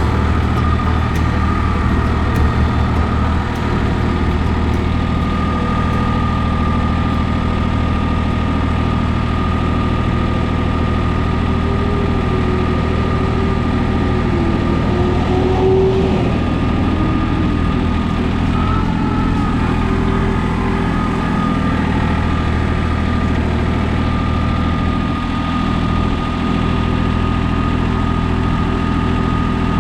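John Deere 855 compact tractor's three-cylinder diesel engine running steadily, with a wavering whine that rises and falls about halfway through.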